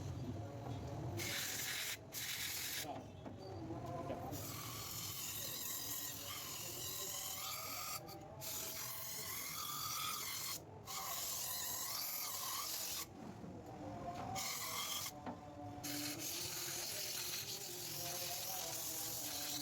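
Scrubbing and rubbing at dirty engine parts while cleaning carbon from the EGR line and intake: a rasping noise in stretches, broken by several short pauses.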